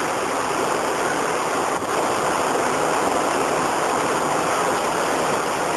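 Heavy rain pouring down in a squall-line thunderstorm, driven by strong wind: a steady rushing hiss.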